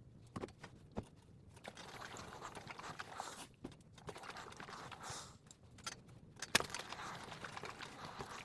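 Scattered light knocks and clicks of things being handled and set down, with a few short swishing sounds; the sharpest knock comes about six and a half seconds in.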